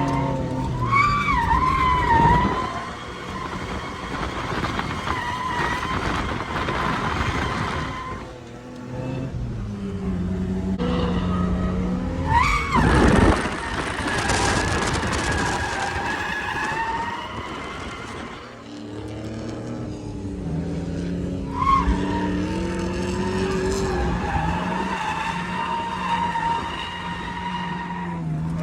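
Drift car on track: the engine revs up and down while the tyres squeal, in several short stretches that change abruptly, as if cut together.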